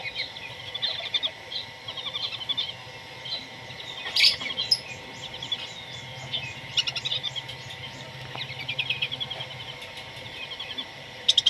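Birds chirping in short, quick trills over and over, with a louder burst of chirps about four seconds in and again near the end. A faint steady hum runs underneath.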